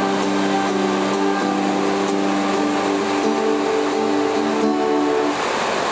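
Heavy rain pouring down steadily, with held chord notes of music playing over it that stop about five seconds in, leaving only the rain.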